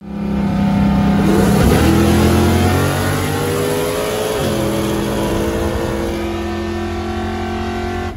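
Ford Mustang's Coyote 5.0 V8 at full throttle: a steady low note for about a second and a half, then the revs climb, dip at a gear change about four seconds in, and climb again.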